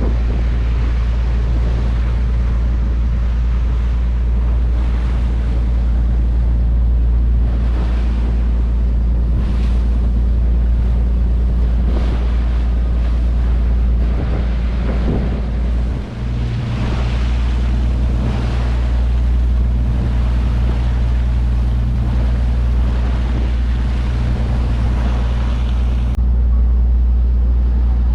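Fishing boat's engine running with a steady low hum, under wind noise on the microphone and the wash of the sea, with a brief dip about halfway through.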